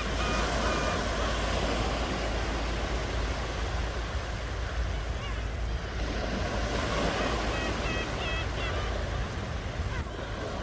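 Ocean waves washing onto a shore: a steady rush of surf with a deep rumble, swelling and easing. A few short, repeated high calls sound near the start and again about three-quarters of the way through.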